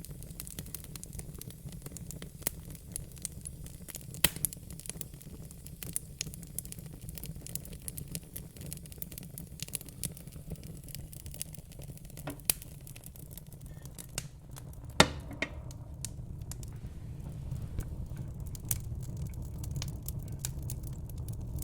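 Wood fire in a fire pit crackling, with irregular sharp pops over a steady low rumble; the loudest pop comes about fifteen seconds in, with others near four and twelve seconds.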